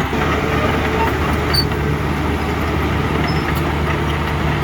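Heavy diesel engine of earthmoving machinery running steadily, with a constant low engine drone.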